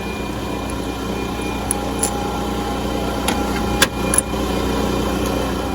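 A steady mechanical running hum, engine- or motor-like, with a few light clicks and knocks over it. It fades away just after this.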